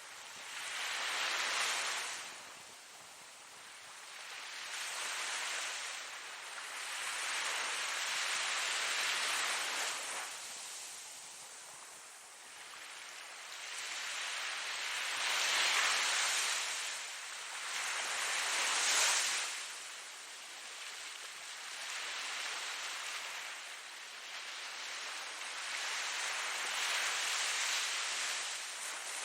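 Ocean waves breaking and washing on a shore, a hiss of surf that swells and fades every few seconds.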